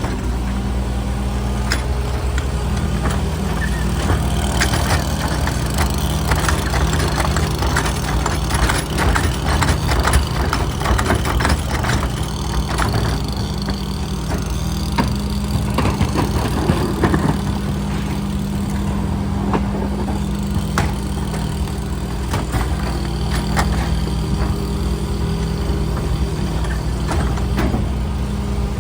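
Garbage truck's diesel engine running steadily at idle, with repeated clanks and knocks, thickest in the first half.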